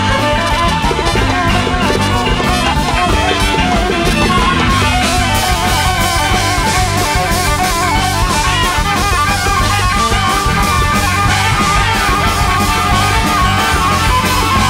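Live large-ensemble band music: a dense instrumental jam with guitar, horns and a driving drum kit.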